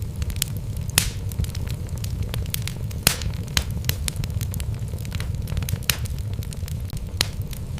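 Wood logs burning in a fireplace: a steady low rumble of flames with frequent irregular crackles and sharp pops, a few of them louder than the rest.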